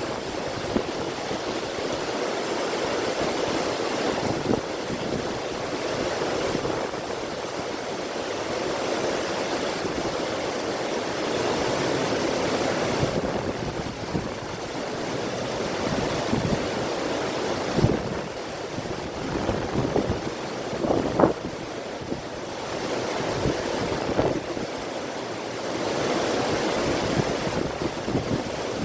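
River water rushing steadily, mixed with wind gusting across the microphone, the sound swelling and easing every few seconds, with a few brief louder surges in the second half.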